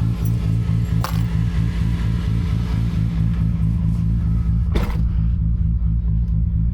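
Big-turbo Toyota Supra 2JZ-GTE straight-six running at a steady, unchanging engine speed, a low even drone. Two sharp clicks are heard, about a second in and again near five seconds.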